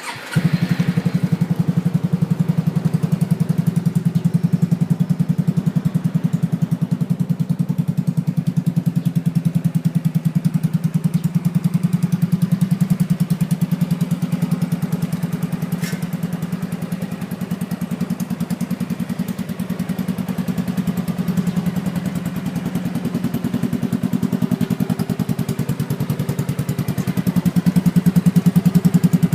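Yamaha Majesty C scooter's four-stroke single-cylinder engine, fitted with a custom aftermarket muffler, starting and settling into a steady, evenly pulsing idle, getting a little louder for a few seconds near the end.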